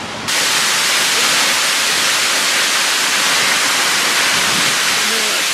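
Waterfall plunging over a cliff: a loud, steady rush of falling water that comes in abruptly just after the start.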